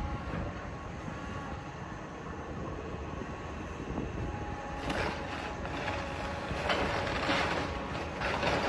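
Heavy demolition machinery, such as an excavator, running steadily, with several sudden clanks and crunches from about halfway through.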